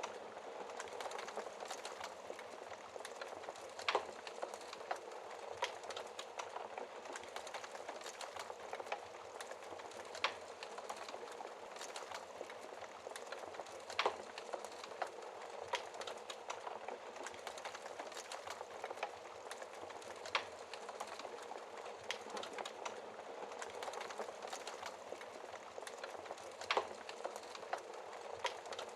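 Wood fire in a fireplace crackling steadily with a constant hiss of burning logs, punctuated by sharper pops about every few seconds, the loudest near 4, 14, 20 and 27 seconds in.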